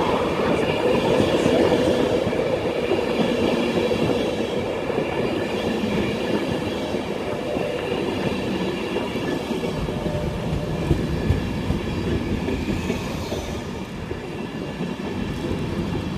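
Intercity 225 train, led by Class 91 electric locomotive 91126, drawing into the platform: a steady rolling rumble under a whine of several high, level tones, easing a little near the end. Wind buffets the microphone.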